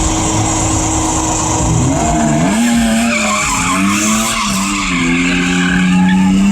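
A V6 car's engine held at high revs while its tires spin and squeal. The engine pitch drops about two seconds in, wavers up and down, then holds steady until the end.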